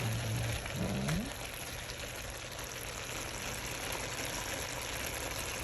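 Cabbage with bacon and peppers frying in a pan, a steady sizzling hiss.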